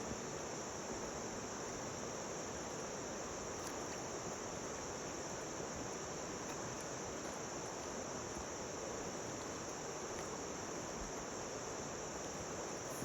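Insect chorus: a steady high-pitched drone that holds level without a break.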